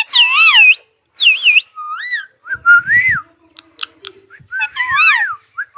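Pet parakeet giving a string of warbling whistles, each sliding up and down in pitch, with short gaps between them. A few faint low knocks come in the middle.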